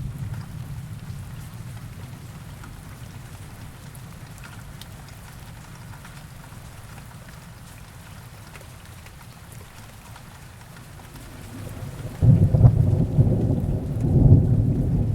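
Heavy rain falling steadily, with the tail of a low thunder rumble fading in the first moment. Near the end, a loud rolling thunder rumble breaks in suddenly and keeps going, swelling twice.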